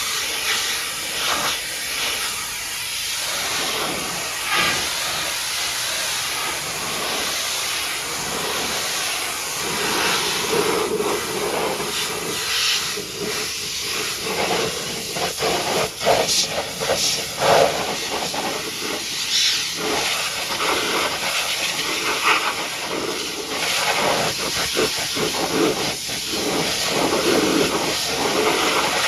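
High-pressure water jet spraying onto a mud-caked dump truck: a steady hiss of spray that swells and fades as the jet moves over different surfaces.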